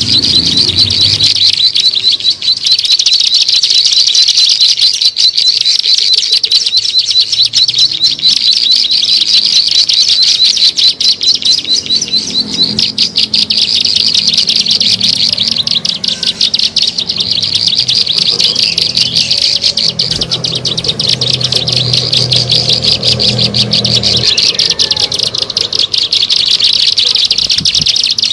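Ciblek sawah (a prinia) calling: a loud, unbroken, rapid chattering trill of high notes, the bird's lure recording.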